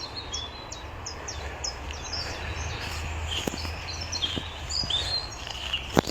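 Several woodland songbirds singing, a dense run of short, high chirps and quick falling notes, over a steady low rumble of wind on the microphone. A single sharp click sounds near the end.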